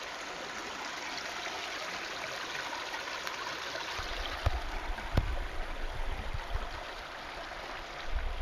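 Creek water running steadily, with a trickling sound. From about halfway in, a low rumble and a few sharp thumps join it, two of them louder than the water.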